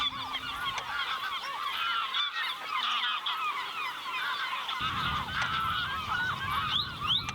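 A large flock of birds calling continuously, many short calls overlapping into a dense chorus. A low rumble joins about five seconds in, and two quick rising whistles stand out near the end.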